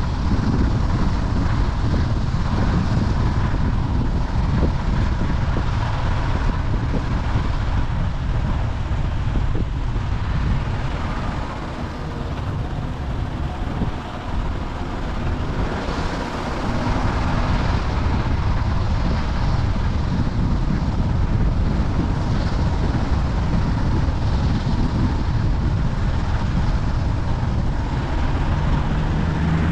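Steady road and wind noise from a moving car, heavy in deep rumble; it eases off for a few seconds about twelve seconds in.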